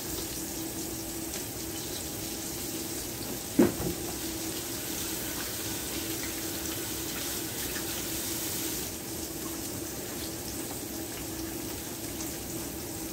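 Floured squash pieces frying in oil in a cast-iron skillet: a steady sizzle, with one sharp clunk about three and a half seconds in.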